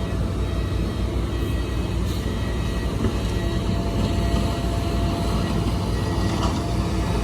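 Heavy earthmoving machinery's diesel engine running steadily with a low rumble, with a few faint knocks.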